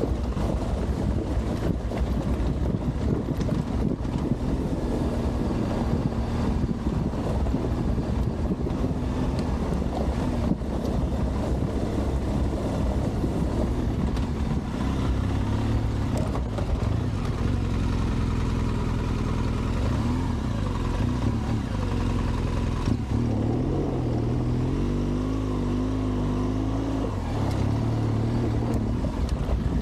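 Adventure motorcycle engine running as the bike is ridden off-road, over a steady rushing noise. Late on, the engine note rises and falls several times as the throttle changes.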